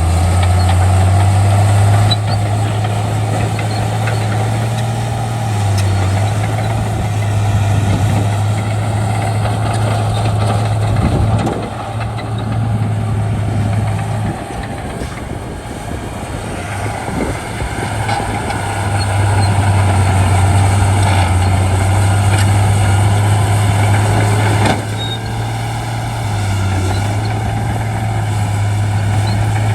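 Shantui D95 bulldozer's diesel engine running under working load, a steady low hum whose level eases off for a few seconds before the middle and dips briefly again later on.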